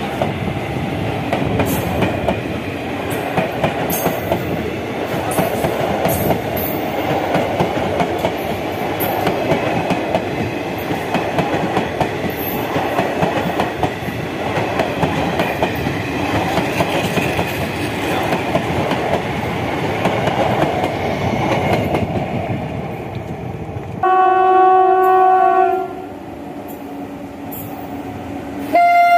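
A rake of ICF passenger coaches rolls past close by, their wheels clattering steadily over the track. After about 22 s this gives way to the quieter rumble of an approaching train, whose WAP-7 electric locomotive sounds its horn for about two seconds; a second horn note starts right at the end.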